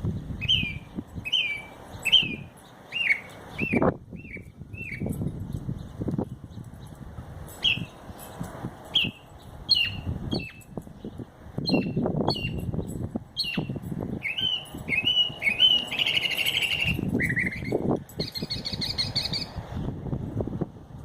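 A desert songbird mimicking car alarms: series of short repeated whistled chirps, given in quick runs. Near the end it gives a harsh buzzy note, then a fast, even pulsing trill. Bursts of low rumble sound underneath at intervals.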